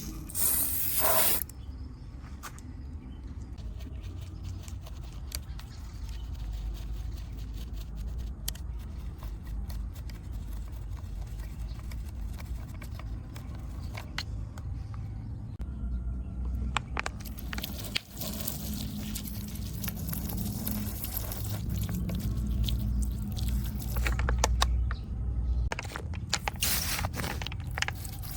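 Cleaning mud off a diecast model car: scattered small scrapes and clicks over a low steady rumble. There are louder hissing stretches at the start, and again about two-thirds of the way in and near the end.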